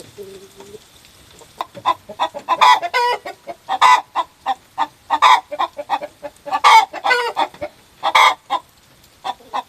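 Chicken cackling: runs of short clucks, each ending in a loud drawn-out squawk, about five times over, starting about a second and a half in.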